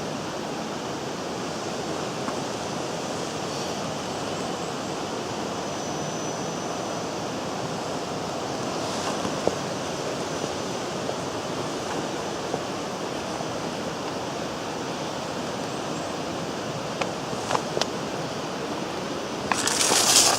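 Steady rushing of a waterfall. Near the end a short, louder burst of crackly noise cuts in.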